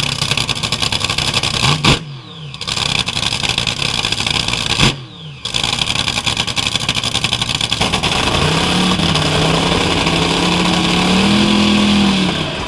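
Drag boat engines running loud, with two sudden brief drops in the noise about two and five seconds in. In the last few seconds a lower, steady engine note comes up and edges higher.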